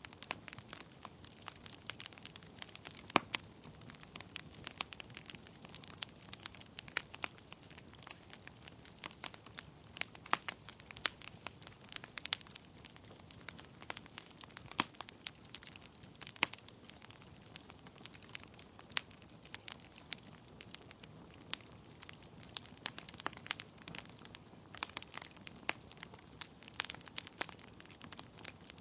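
Wood fire in a fireplace crackling: irregular sharp snaps and pops from burning logs over a low steady hiss of the flames.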